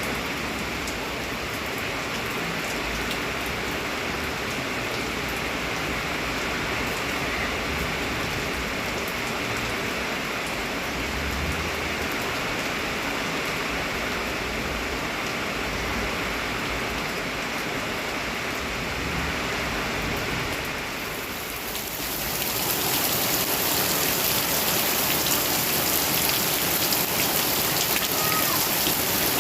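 Heavy rain falling steadily, a dense even hiss of rain on surfaces. About 22 seconds in it swells louder and hissier.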